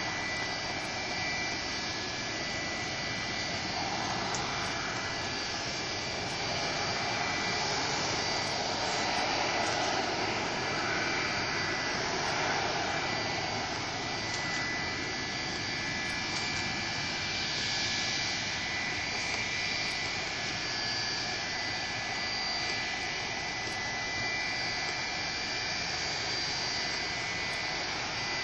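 Boeing 737-300's CFM56-3 turbofan engines running steadily: a broad jet rush with a high steady whine on top, swelling and easing a little.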